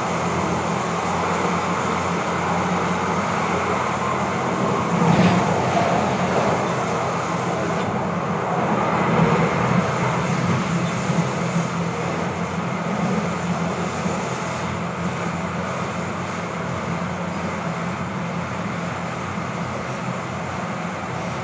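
Siemens-Duewag U2 light rail car heard from inside, running along the track with a steady rumble of wheels on rail. There is a sharp knock about five seconds in, and the noise grows gradually quieter over the second half as the train nears a station.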